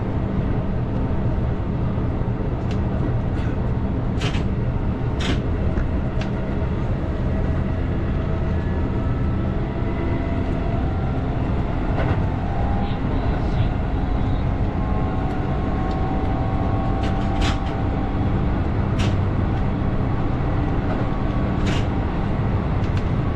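Keihan 8000 series electric train running along the line: a steady rumble of wheels on rail, with sharp clicks from the track every few seconds. Faint whining tones shift in pitch through the middle.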